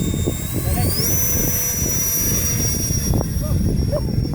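The Scorpion aircraft's motor winds up to a high whine over about the first second as the throttle opens, then holds a steady pitch. Strong wind buffets the microphone throughout.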